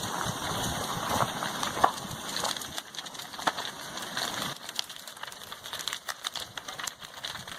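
A wooden house burning as lava flows into it: irregular crackles and pops over a steady hiss, a little quieter after about halfway.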